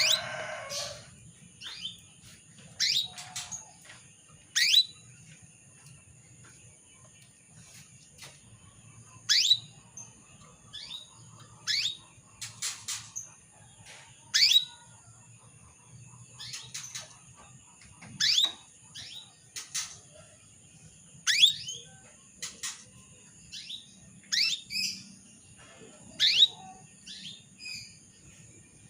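Female canary giving single short call notes that drop sharply in pitch, spaced irregularly a second or two apart, sometimes two in quick succession. A steady thin high whine runs beneath.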